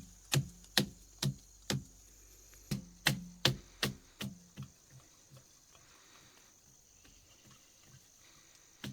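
Series of chopping strikes, about two a second, each with a short dull ring. There are four strikes, a brief pause, then a second run that grows fainter and stops about halfway through.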